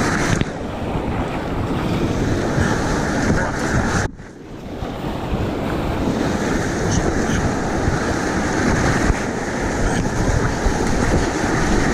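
Steady rush of river whitewater under a kayak, mixed with wind buffeting the microphone, with a brief drop in level about four seconds in.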